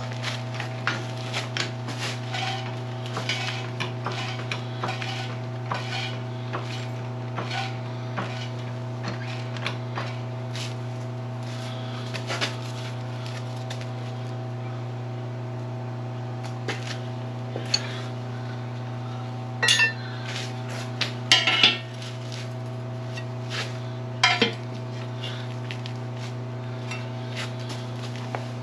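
Metal tools and steel parts clinking and knocking during the teardown of a Dynapac LP650 roller's drum assembly: scattered light clinks, with a few louder metallic clatters in the second half. A steady low hum runs underneath.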